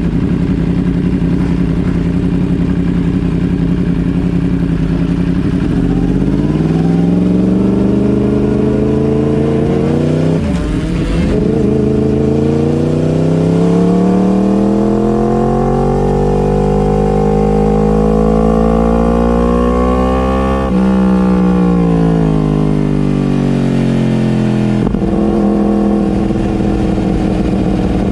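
Motorcycle engine running steadily, then revving up in pitch as it accelerates, with a sharp dip about ten seconds in like a gear change. It climbs again, drops suddenly about twenty seconds in and falls away as it slows, then runs steadily near the end.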